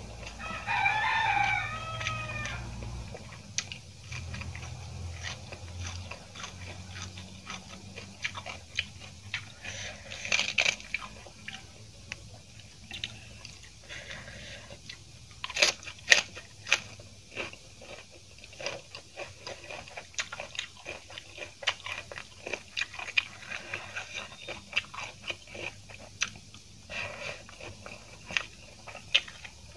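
Close-up eating sounds of a person chewing mouthfuls of rice and chili tomato fish paste eaten by hand: wet chewing, lip smacks and many sharp crunchy clicks. About a second in there is a brief high-pitched warbling sound.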